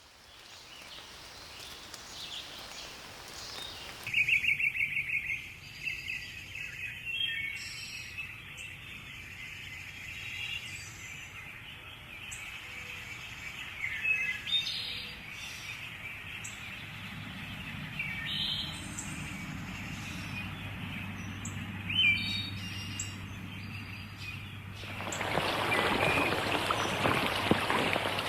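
Birdsong: several birds chirping and trilling in short, varied calls, starting abruptly about four seconds in. Near the end it gives way to the steady patter of rain.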